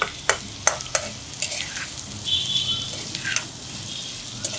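Raw mango slices and onion frying in oil in a non-stick pan on a low flame, with a steady sizzle as a metal spatula stirs them. The spatula's edge knocks and scrapes against the pan in sharp clicks, several in the first second and a few more later.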